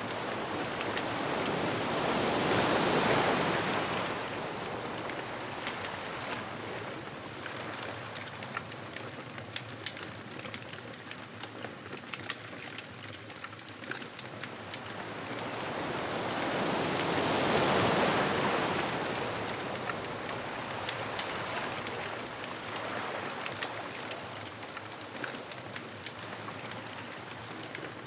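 Ocean waves breaking and washing up the beach, swelling twice, once early and again around the middle, over the steady crackle and pop of a wood bonfire.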